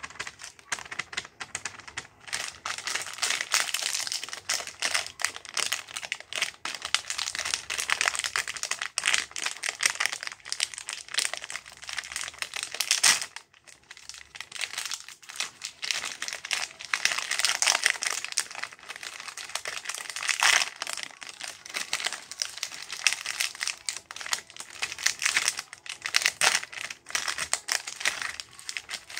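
Plastic snack packaging crinkling and rustling as it is handled and opened, with dense small crackles and a short pause partway through.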